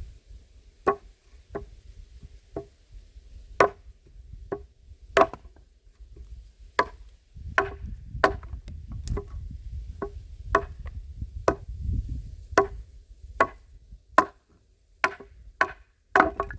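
Homemade axe chopping firewood: a steady run of about twenty sharp strikes, a little faster than one a second.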